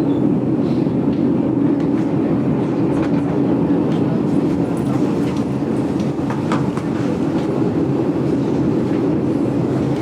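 GoldenPass Belle Époque train running along the track, heard from inside its carriage: a steady rumble with scattered light clicks from the wheels.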